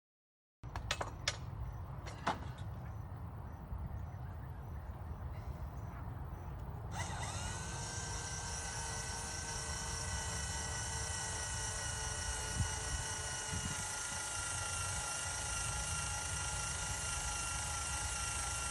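A few knocks and clicks of handling. Then, about seven seconds in, a power drill spins up and runs steadily with a high whine, drilling a hole.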